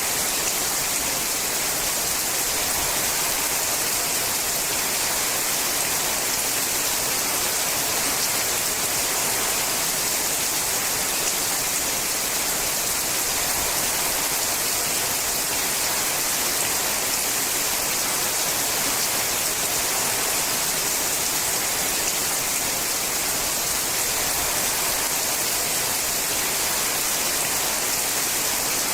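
Steady rain falling on a sheet-metal roof: an even, unbroken hiss with no single drops standing out.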